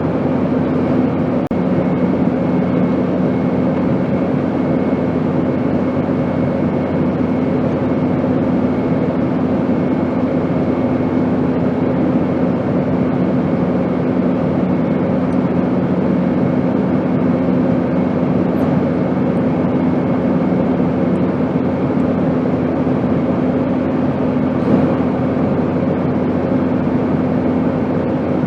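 Steady airplane engine drone: an even rushing noise with a low hum that holds a constant pitch throughout.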